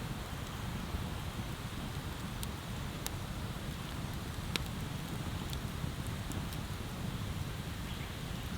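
Wood bonfire burning: a steady low rush with a few sharp crackles and pops from the burning wood.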